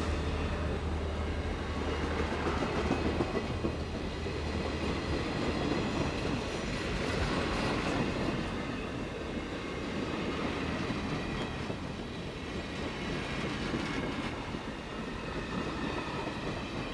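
Passenger train rolling past on the rails: a steady noise of wheels on track, with a low hum that fades out about five seconds in.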